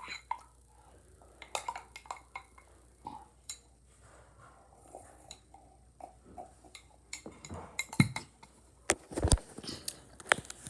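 Scattered clinks and knocks of dishes and utensils being handled, sparse at first and busier in the last few seconds.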